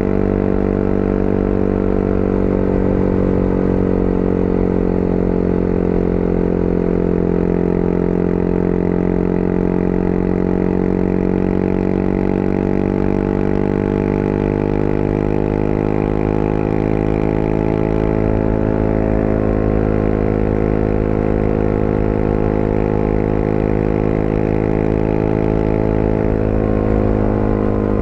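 Motorcycle engine running at a steady cruise on the open road, its pitch sagging gently and then rising a little again as the throttle eases and opens.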